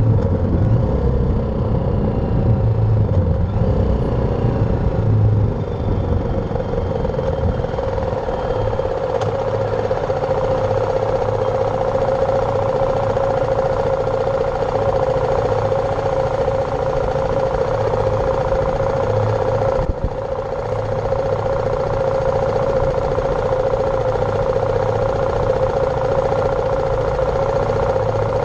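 BMW G310R's single-cylinder engine running steadily, a low throb under a constant mid-pitched hum, with a brief dip in loudness about twenty seconds in.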